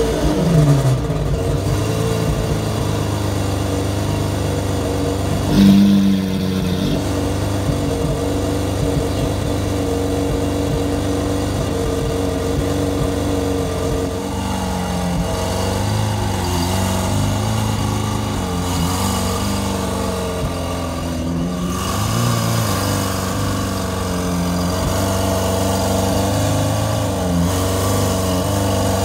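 Lamborghini Aventador V12 idling just after start-up, its revs dropping back to idle in the first second. A short rev blip comes about six seconds in, then a steady, loud idle with slight swells in pitch.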